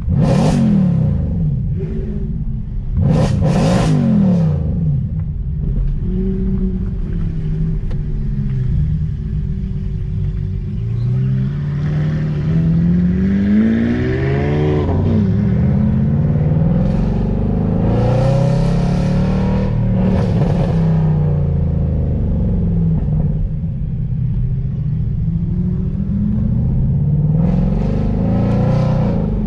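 Mercedes-AMG Black Series engine driven hard, pulling up through the revs and shifting gears again and again, its pitch repeatedly climbing and falling. It has sharp bursts of sound near the start and again about two-thirds of the way in.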